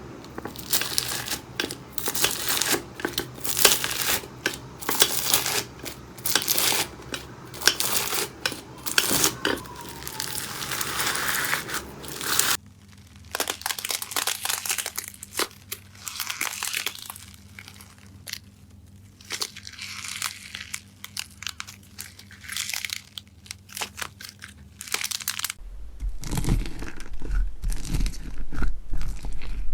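Hands squeezing, poking and stretching slime, giving dense runs of small crackling clicks and pops. The pops thin out about twelve seconds in. Near the end they continue over a steady low hum.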